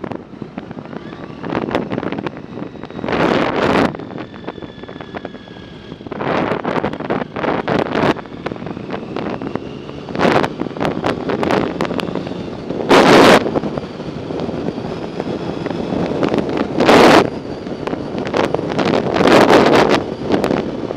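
Wind buffeting the microphone of a camera carried on a moving bicycle, in loud uneven gusts every few seconds over a steady rush.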